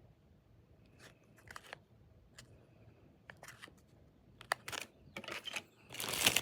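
Plastic MRE packets being handled and sorted: scattered crinkles and clicks, then a louder rustle of packaging near the end.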